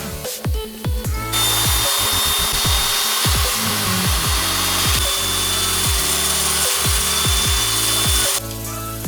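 A power drill driving a homemade vertical sanding drum runs for about seven seconds. It starts a little over a second in and cuts off near the end, a steady high whine over a rushing noise. Electronic dance music with a pounding kick drum plays under it throughout.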